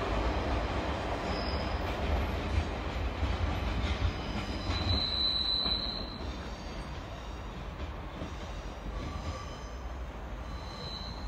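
Northern passenger train pulling away, its low rumble fading as it goes. Brief high-pitched wheel squeals come about five seconds in and again near the end.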